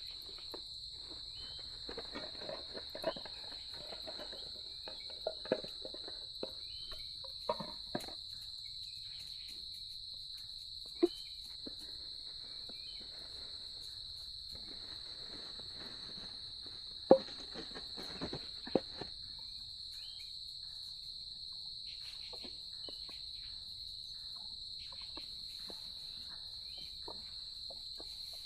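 Insects chirring in one steady, high, unbroken drone, with scattered sharp clicks and knocks of things being handled, the loudest about 11, 17 and 19 seconds in.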